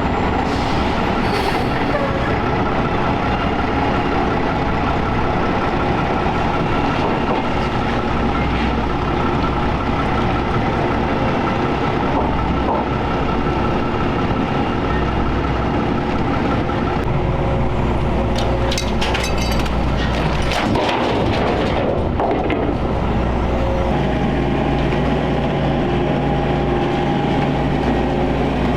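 A heavy vehicle engine runs steadily. A burst of clicks and rattles comes about two-thirds of the way through, and the engine note shifts slightly near the end.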